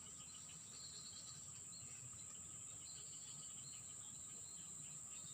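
Faint outdoor ambience dominated by a steady, unbroken high-pitched insect trill, with scattered short chirps above a low background rumble.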